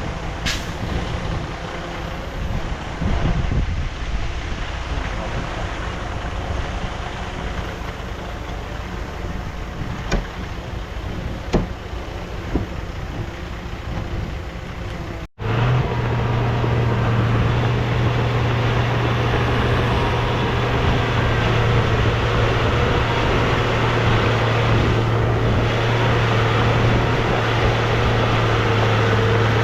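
Heavy diesel engines of earthmoving machinery running, with a couple of short knocks in the first half. About halfway through, the sound cuts to a louder, steady engine drone with a strong low hum.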